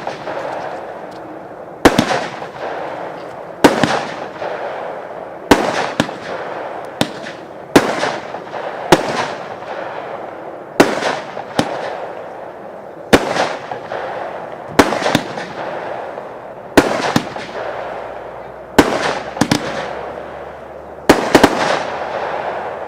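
Royal Fireworks 'China by Night' firework going off: a run of sharp bangs about every one to two seconds, some in quick pairs, each followed by a fading crackling hiss.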